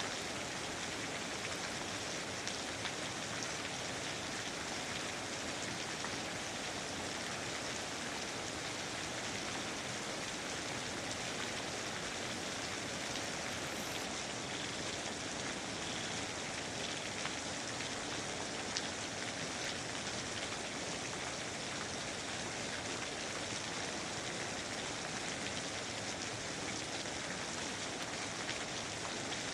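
Steady rain falling on foliage and surfaces, an even hiss with many fine drop patters.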